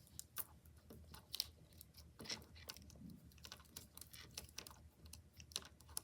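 Faint, irregular small clicks and rubbing of plastic pony beads and plastic lacing cord being handled and pulled tight.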